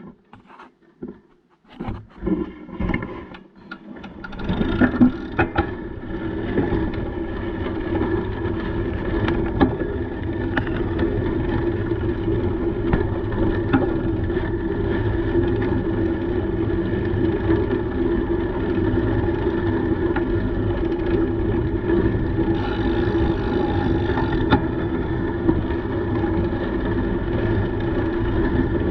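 A bicycle riding along a cycle path: steady wind rush on the microphone and rolling tyre noise. It starts after a few seconds of scattered knocks and handling sounds as the ride gets under way.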